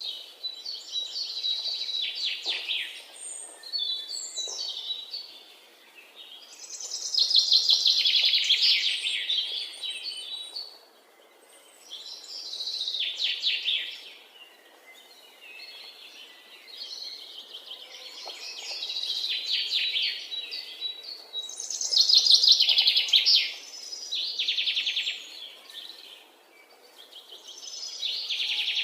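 Songbirds singing in repeated phrases of rapid, trilling notes, each phrase a second or two long, coming every few seconds over faint background hiss.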